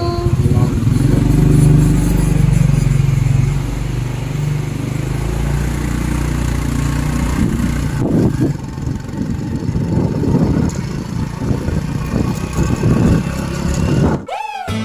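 A 125cc motorcycle's engine running steadily, with louder, uneven noise over it from about eight seconds in.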